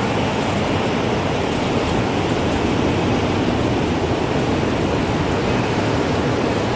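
Steady rushing wind, a dense even noise heaviest in the low and middle range.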